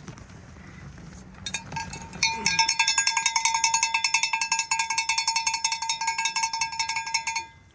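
Rapid metallic ringing rattle at one steady pitch, about ten strokes a second, starting about two seconds in and running for about five seconds, like a bell shaken hard; the kind of signal a pigeon keeper sounds to call his birds in to feed.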